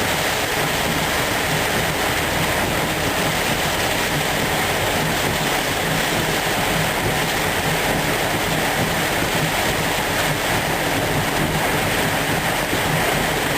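Steady rush of wind-driven rain and storm wind beating on a car, heard from inside the closed cabin, with a low steady hum underneath.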